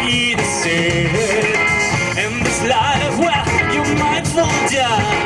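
Live rock band playing: electric guitars, bass and drums, with a wavering melody line that may be vocals or lead guitar between sung phrases.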